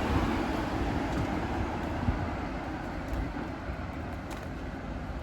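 Steady low rumble and hiss of a moving vehicle, with a single knock about two seconds in.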